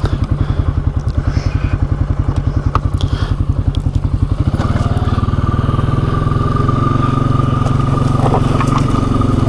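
ATV engine ticking over with an even, slow pulse, then opening up about four and a half seconds in to a steadier, fuller running note with a thin whine over it as the quad moves off. A few sharp clicks sound over the engine.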